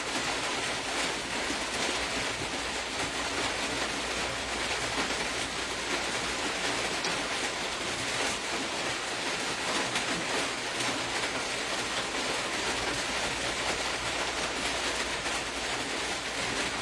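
Steady rain-like hiss with a faint low hum underneath, unchanging throughout.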